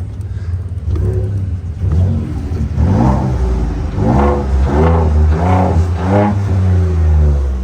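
2017 Ford F-150's 3.5-litre twin-turbo EcoBoost V6 through an aftermarket exhaust in rumble mode, idling and then blipped several times in quick succession, the revs rising and falling before settling back to idle near the end.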